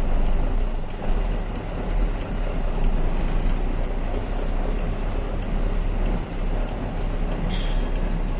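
Truck engine and road noise as the truck drives, a steady low rumble, with a faint regular ticking about twice a second.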